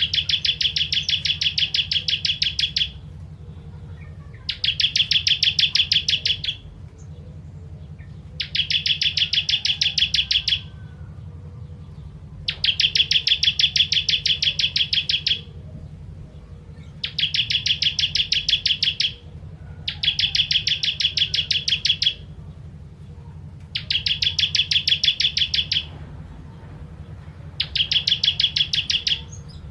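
Ciblek kristal, a bar-winged prinia, singing in repeated bursts of very fast, rattling trilled notes. Each burst lasts two to three seconds with short pauses between, about eight times over, and a steady low hum runs underneath.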